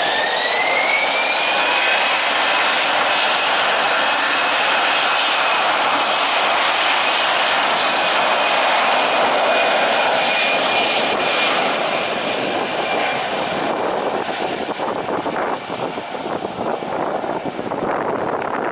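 Jet airliner engines on a landing aircraft: a whine that rises in pitch over the first two seconds, then a loud steady roar that eases off after about twelve seconds.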